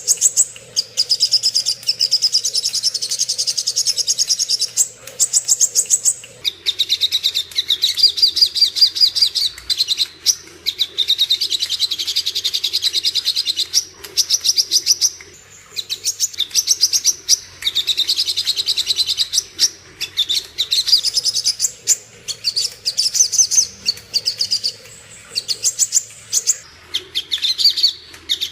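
Sogon songbird giving its fighting song: long phrases of very rapid, high-pitched chattering notes, broken by short pauses every few seconds.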